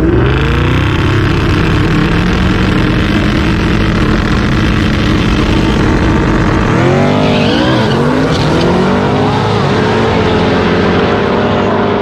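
Drag-racing street cars' engines running hard and accelerating, the pitch rising just after the start and again in several rising sweeps from about seven seconds in, like gear changes under full throttle.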